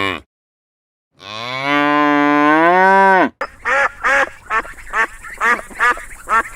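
A cow moos once, a long call that rises in pitch and is held for about two seconds. It cuts off abruptly, and a quick series of short quacking waterfowl calls follows, about three a second.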